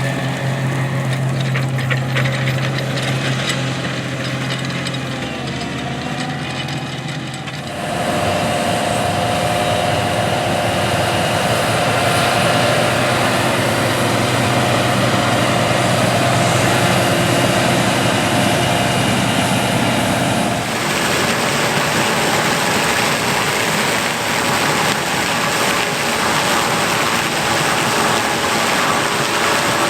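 Vehicle engine running steadily, heard in three stretches cut together, with abrupt changes in its sound about 8 and 21 seconds in.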